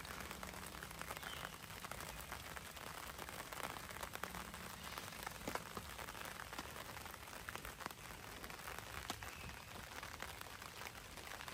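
Light rain falling, a faint steady patter with scattered single drops ticking on a tarp overhead.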